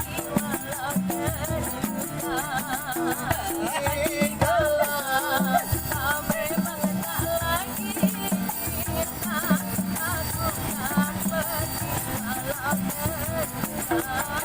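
Street busker's song: a singing voice with a wavering vibrato over a steady beat of bass notes and a shaken rattle-type percussion.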